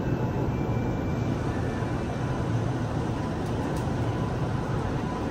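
Steady hum inside a stopped electric commuter train car with its doors open, its onboard equipment running, with a faint steady high tone over a low drone.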